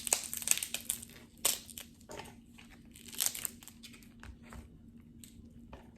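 Crab legs being cracked and pulled apart by hand: a run of sharp crackling snaps, densest in the first second and a half and again about three seconds in.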